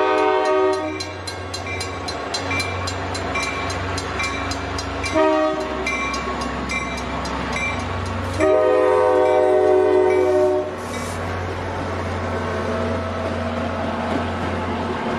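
Western Railroad Supply mechanical crossing bell ringing with fast, even strikes as a train approaches and sounds its multi-chime horn for the crossing. The horn ends a long blast under a second in, gives a short blast about five seconds in and a long one from about eight and a half seconds, under the steady drone of the locomotive.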